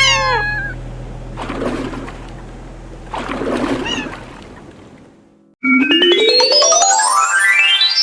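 A short cartoon cat meow, then two brief splashes of water, then a loud electronic sweep climbing steadily in pitch from about halfway on, part of the soundtrack music.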